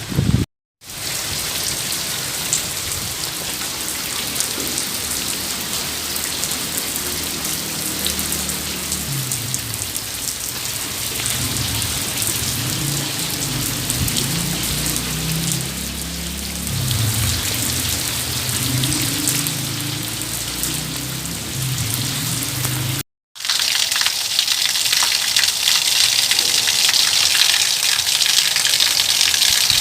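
Steady rain falling and pattering on surfaces, with a low, wavering rumble beneath it through the middle. The sound cuts out briefly twice. After the second gap, about 23 seconds in, it comes back as heavier, brighter rain.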